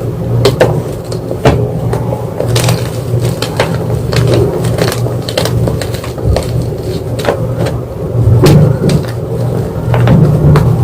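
White gym chalk being crushed, crunching and crackling in irregular snaps several times a second, over a steady low rumble.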